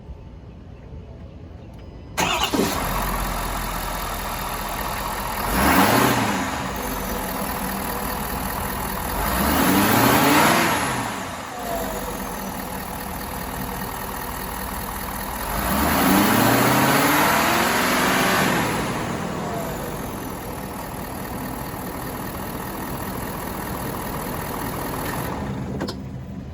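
2022 Ford F-250's V8 engine starting about two seconds in and settling to idle, then revved three times: a short blip, then two longer revs that climb and fall back. The engine sound cuts off near the end.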